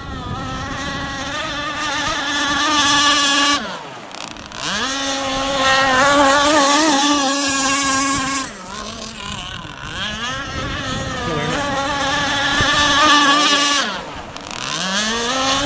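Two-stroke SX254 billet engine of a radio-controlled Aeromarine Conquest Cat racing catamaran running at high revs with a high, buzzing tone. Three times the throttle is eased and the pitch falls away, then it climbs back up to full speed: once about a quarter of the way in, once past the middle and once near the end.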